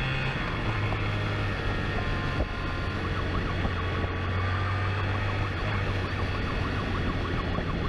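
Police siren starting about three seconds in with a fast up-and-down warble, over the steady drone of a motorcycle engine.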